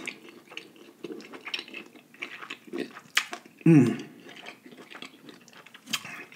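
Close-miked eating: chewing a mouthful of seafood boil in butter sauce, with wet lip smacks and small clicks. A short hum from the voice falls in pitch about halfway through.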